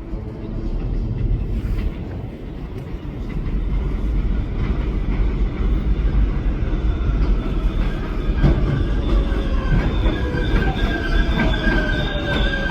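7-line subway train running on the elevated tracks: a steady low rumble of wheels on rail. From about two-thirds of the way in, high-pitched wheel squeal and motor whine come in, one tone gliding downward.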